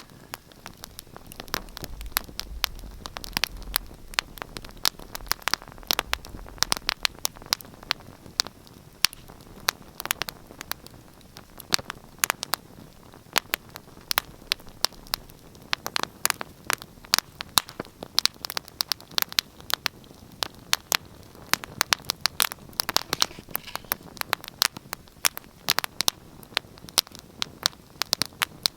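Wood fire burning in a fireplace, crackling and popping with many sharp snaps at irregular intervals over a soft steady hiss.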